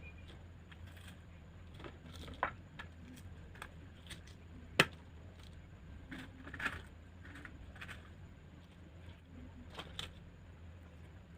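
Close-miked eating of a crisp raw garden salad: scattered crunches and clicks, the sharpest about five seconds in, over a faint low hum.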